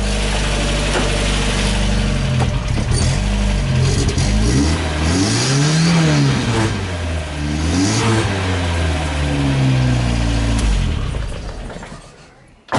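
Turbocharged Toyota 22R four-cylinder engine in a Hilux running at idle, then revved twice, its pitch rising and falling each time. The engine sound fades away near the end.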